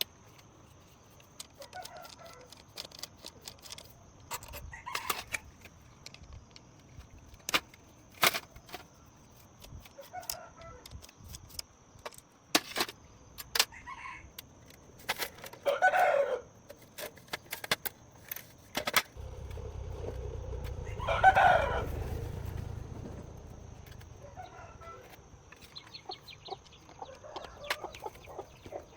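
A rooster crowing twice, once around the middle and again a few seconds later, with fainter clucking calls between, among scattered sharp clicks and knocks. A low rumble rises under the second crow.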